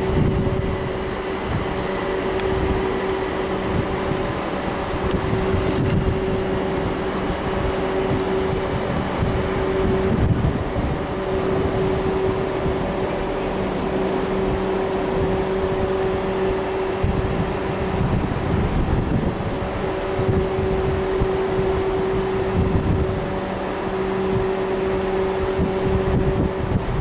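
Trains at a railway station: a steady mechanical drone with a constant hum, over the low rumble of a train running on the tracks.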